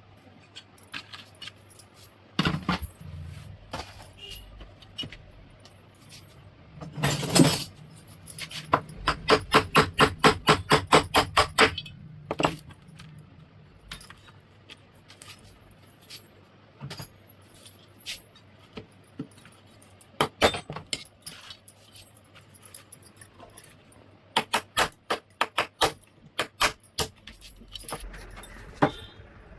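Metal parts and tools clinking and knocking during work on a mixer grinder, with scattered sharp clicks and a quick run of even taps, about four or five a second, near the middle.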